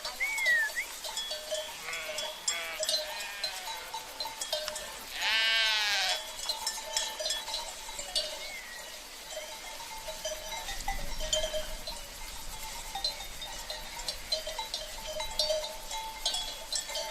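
Sheep bleating, with one loud, wavering bleat about five seconds in and fainter bleats earlier, over the steady clanking and tinkling of livestock bells (cencerros).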